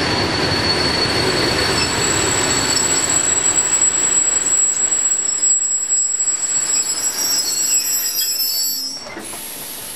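Passenger train carriages rolling slowly past at close range, with steady wheel and rail noise and a high, steady squeal of braking wheels. The train comes to a stop about nine seconds in, and the noise drops to a quieter hiss.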